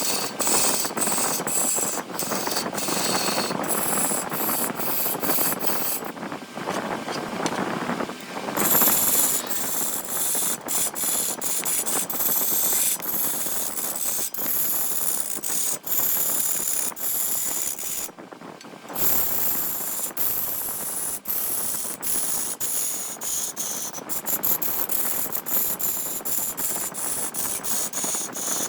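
A large wood lathe spinning a wooden blank as a tool works its surface: a steady rasping scrape with many quick clicks and a high whine, broken off briefly about two-thirds of the way through.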